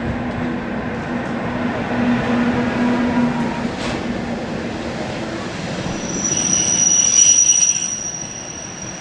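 Matterhorn-Gotthard-Bahn passenger coaches running past on the rails, with a low steady hum in the first few seconds. About six seconds in, a high steady wheel squeal starts and is at its loudest shortly before fading near the end.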